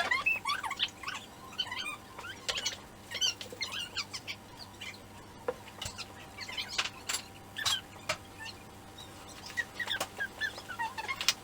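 A pet bird chirping and chattering in quick bursts of short, wavering notes, with a few sharp clicks in between.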